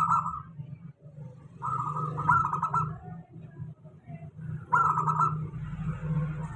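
Zebra dove (local perkutut) singing its trilled cooing song, three phrases of rapid repeated notes a couple of seconds apart, over a steady low hum.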